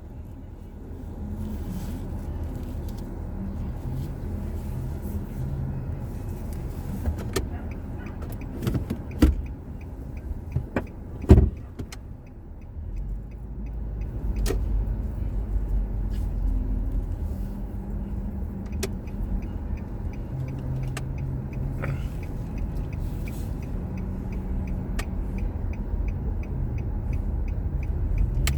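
Car driving, its engine and road noise heard from inside the cabin, with a few sharp knocks about nine and eleven seconds in.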